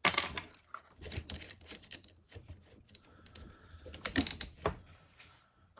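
Irregular small clicks and knocks of RC truck parts, screws and tools being handled during reassembly, with a louder clatter right at the start and another about four seconds in.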